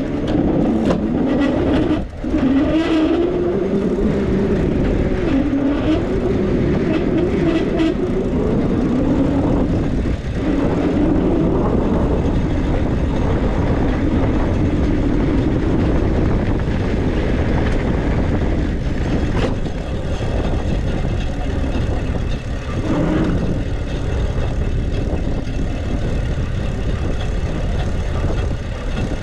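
An e-bike being ridden along: steady wind rush and rolling noise, with a humming tone that wavers up and down in pitch and a few brief knocks.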